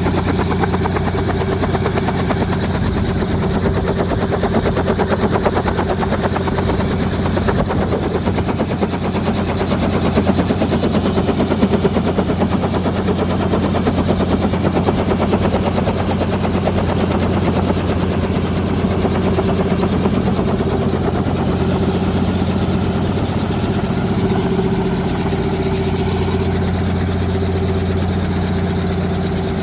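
Helicopter running steadily, a fast, even chopping of the rotor over a constant low engine hum.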